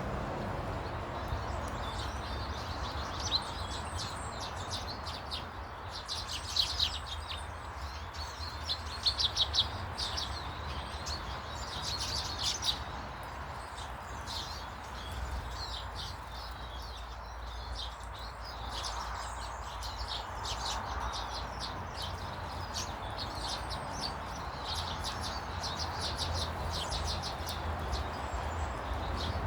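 Birds chirping and twittering, with many short high chirps and quick trills that come thickest in the first half. A steady low rumble runs underneath.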